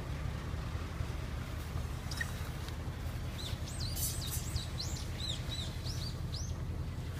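A Nissan Vanette truck's engine idling with a steady low hum, while a bird sings a quick run of rising-and-falling chirps from about three and a half to six and a half seconds in.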